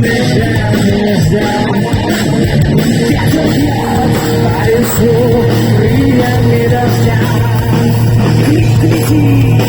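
Heavy metal band playing live, with distorted electric guitar prominent over bass and drums.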